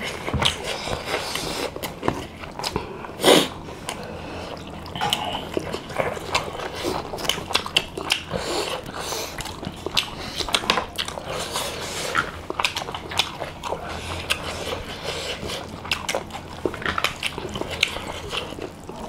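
Close-up eating sounds of people eating rice and curry by hand: wet chewing and many short mouth smacks and clicks. One louder smack comes about three seconds in.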